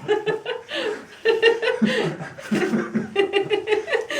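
People laughing: runs of short, repeated chuckles.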